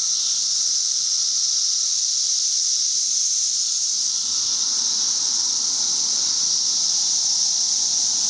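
Dense chorus of periodical cicadas, many males singing at once and blending into one steady, high-pitched drone. These are mating calls from males calling for females.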